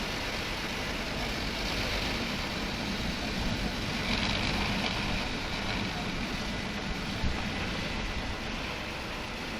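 Automatic car wash machine running: a steady rushing noise, with one short knock a little past seven seconds in.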